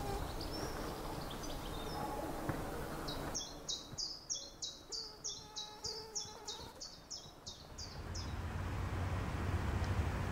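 A bird calling a quick series of short, high, falling notes, about three to four a second, for some four seconds. About eight seconds in a low steady hum sets in.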